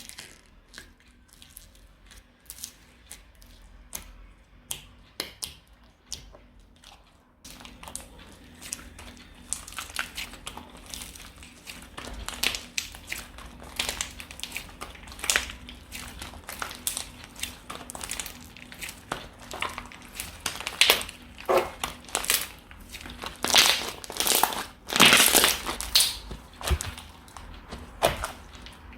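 Slime being squeezed and pressed by hand, giving crunchy crackling clicks and pops. They are sparse for the first several seconds, then denser and louder, with the strongest crackling clusters near the end.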